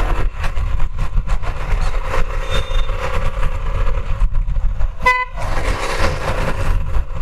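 Taro GP1 motorcycle on the move, a steady low rumble with wind buffeting on the helmet-mounted camera. About five seconds in, the bike's horn gives one short beep, which is loud.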